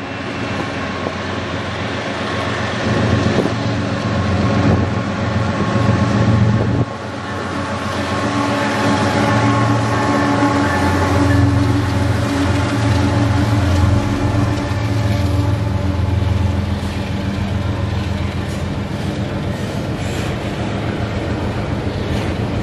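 Train running close by on the tracks: a steady rumble with a low engine hum. It builds to its loudest about six seconds in, drops suddenly, then carries on evenly.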